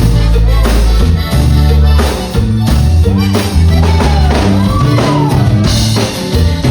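A live Tejano band playing, with accordion over a steady bass line and drum kit.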